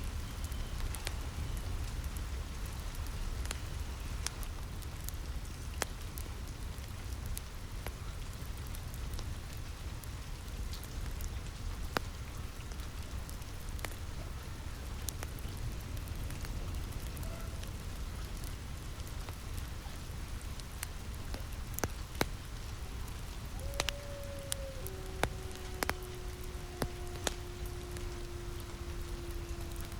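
Steady rain falling on a roof, with scattered sharp pops and crackles from a wood fire in a fireplace.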